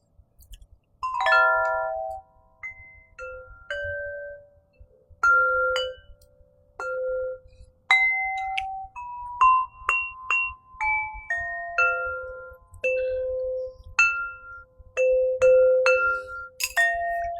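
Crystal harp played slowly, about twenty single clear notes rung one after another, each ringing on and fading under the next. A short rush of noise comes in right at the end.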